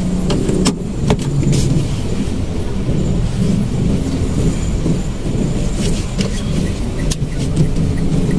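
Mitsubishi Mirage's engine heard from inside the cabin as the manual car drives off, a low hum whose pitch wavers up and down with engine speed. There are a couple of light clicks about a second in.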